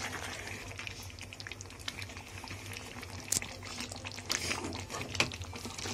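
Chicken in thick masala bubbling and sizzling in a kadai over a high flame as it is fried down in its own released juices, with scattered clicks and scrapes of a metal slotted spoon stirring against the pan.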